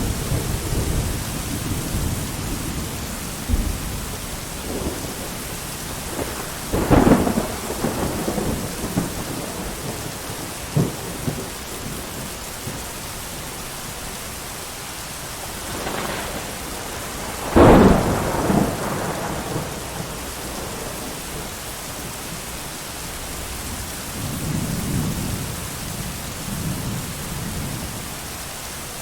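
Thunderstorm: steady heavy rain with rolling thunder, two sharp loud cracks of thunder about seven and seventeen seconds in and lower rumbles in between.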